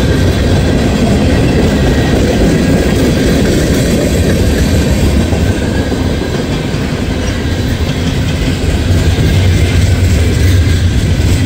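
Norfolk Southern freight train passing close by: a steady, loud rumble of the train rolling on the rails.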